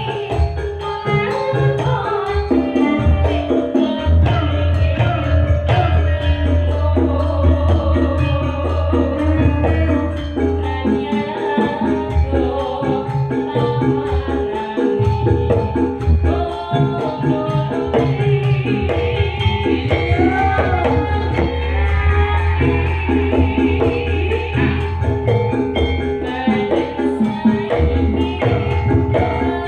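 Live Javanese sragenan music played by a gamelan-based campursari ensemble, with steady drumming and a heavy bass line, and a singer's wavering vocal line about two-thirds of the way through.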